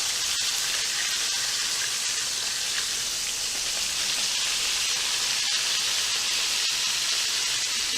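A whole seasoned chicken sizzling steadily in hot oil, frying on its freshly turned front side.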